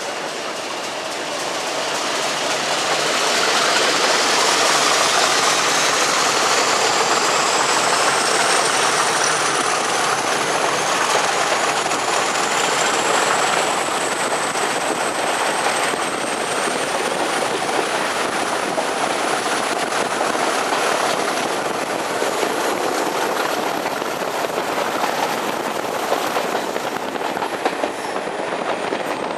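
Diesel-hauled train running on the rails, with wheel clatter and a high whine that climbs steadily in pitch for most of the time and drops near the end.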